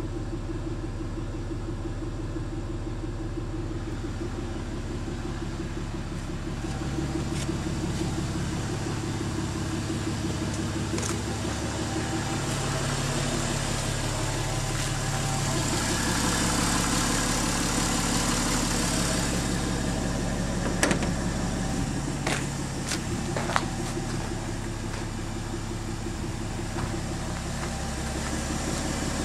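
Toyota 2JZ-GTE twin-turbo inline-six running through a cat-back dual exhaust, mostly at a steady idle. The engine note rises and gets somewhat louder through the middle, then settles back. A few sharp clicks come about two-thirds of the way in.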